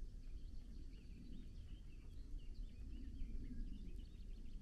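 Small songbirds chirping and twittering in many quick short calls, over a steady low rumbling noise.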